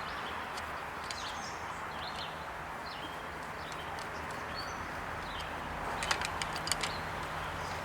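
Birds chirping over a steady outdoor background hiss, with a quick run of sharp clicks and taps about six seconds in.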